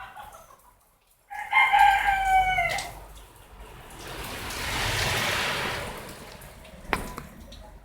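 A rooster crows once, a loud drawn-out call that drops in pitch at its end, about a second in. Later a broad rushing noise swells and fades, and a sharp click sounds near the end.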